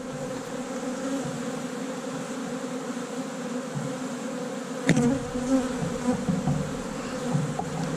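Honey bees buzzing steadily around an open hive during a frame-by-frame inspection: the hum of a large, strong colony. There is one sharp knock about five seconds in.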